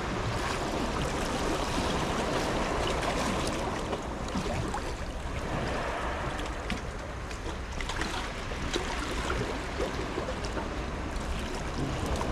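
Rough sea with waves washing steadily, and wind rumbling on the microphone.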